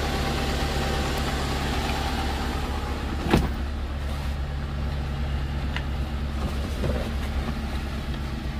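Daihatsu Zebra Master's 1.3-litre fuel-injected engine idling steadily with the air conditioning on full, smooth and even. A sharp click about three and a half seconds in, and a fainter one near the end.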